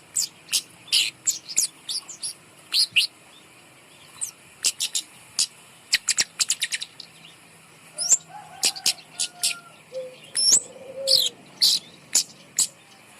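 Kemade bird chirping: short, sharp, high notes in irregular bursts, with a quick rattling run of them about six seconds in.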